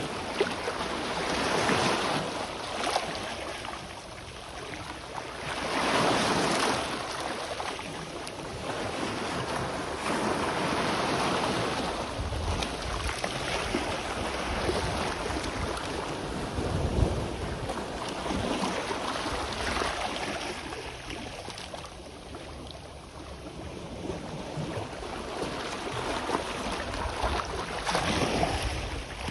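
Sea waves washing onto the shore, swelling and fading every few seconds, with some low wind rumble on the microphone.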